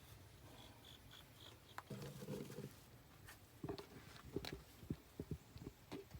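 Faint clicks and light knocks of eggs being gathered by hand from the coop's nest boxes, coming in a quick string over the last few seconds. A short low call or hum sounds about two seconds in, and a few faint high chirps come near the start.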